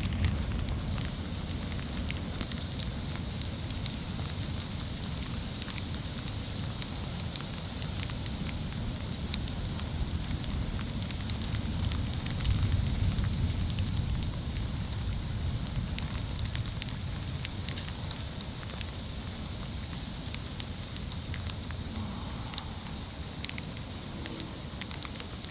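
Steady rain during a thunderstorm, with many small drop ticks over a constant hiss. A low rumble runs underneath and swells about halfway through.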